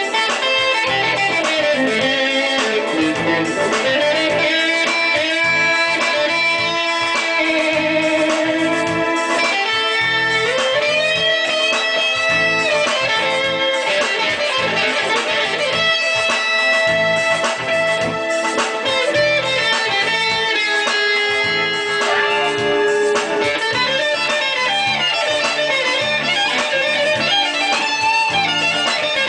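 Electric guitar playing a lead melody, with long held notes that bend and waver in pitch, over a steady low accompaniment.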